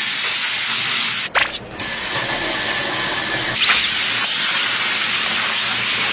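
Cartoon steam-train hiss sound effect: a loud, steady hiss with a brief drop about a second in and two quick swooping sweeps.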